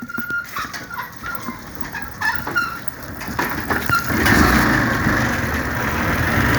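Chickens clucking in short calls, then a motorcycle's engine runs and grows loud about four seconds in as the bike gets under way.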